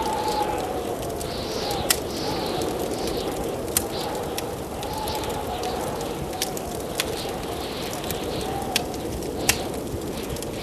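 Blizzard wind howling in long, wavering gusts over a steady rush of noise, with a wood fire crackling: sharp pops every second or two.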